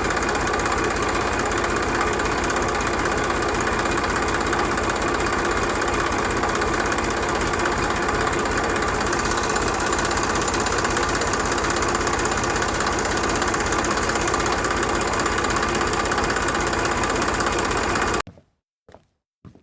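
Mini tractor's engine running steadily. It cuts off abruptly near the end, and a few short knocks follow.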